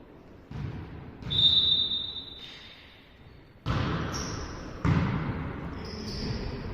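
Volleyball being played in an echoing sports hall: a referee's whistle gives one long steady blast about a second in, and there are several sudden thuds of the ball being struck.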